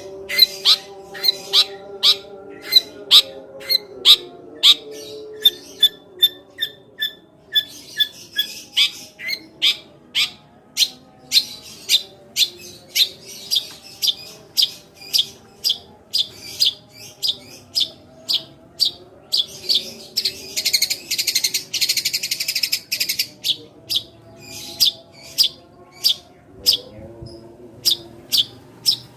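Long-tailed shrike singing a sparrow-imitation burst: sharp chirps repeated about twice a second, broken by a few seconds of dense, rapid chatter past the middle.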